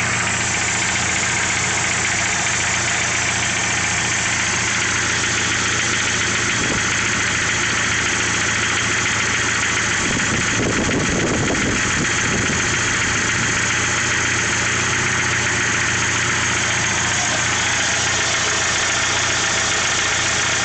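1995 Jeep Wrangler YJ's 2.5-litre four-cylinder engine idling steadily from a cold start, with a knocking noise that the owner takes for piston slap and that lasts until the engine reaches operating temperature.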